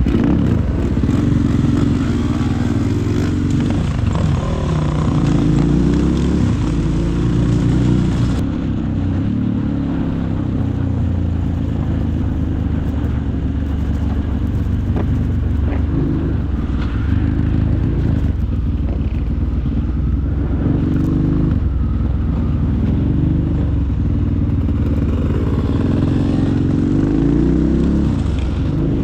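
Supermoto motorcycle engine ridden hard, its revs repeatedly rising and falling with throttle and gear changes.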